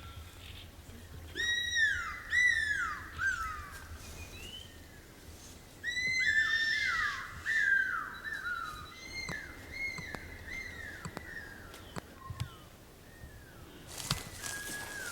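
A bird calling in loud, down-slurred whistled notes, given in runs of two to five with pauses between.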